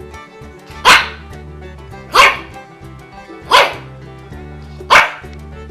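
Dog barking: four single barks, evenly spaced about a second and a half apart, over background music.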